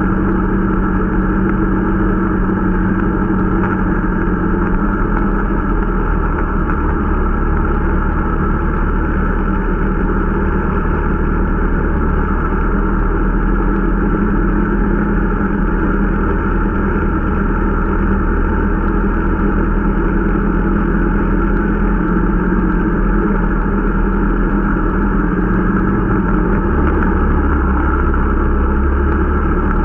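Irbis Dingo T125 snowmobile's small single-cylinder engine running steadily under way during its break-in, with an even engine note and track noise and little change in revs.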